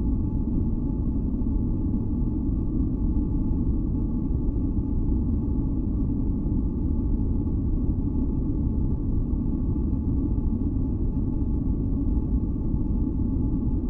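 Continuous masking noise for sleep and relaxation: a steady, deep rumbling hiss weighted toward the low end, with a few faint steady high tones over it. It holds constant without change.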